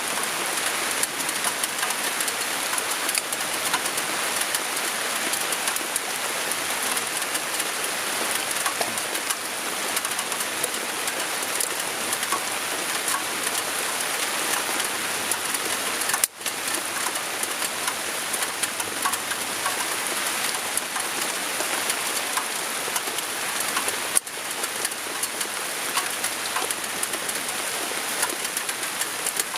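Steady rain falling, a constant hiss of drops with many small taps on a surface, briefly cut off twice in the second half.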